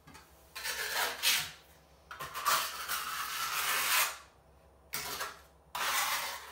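Four rasping scraping strokes, the second one long, of a trowel spreading thin-set mortar.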